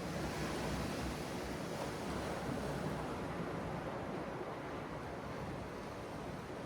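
Sea surf, a steady rush of waves that swells a little in the first few seconds, with wind rumbling on the microphone.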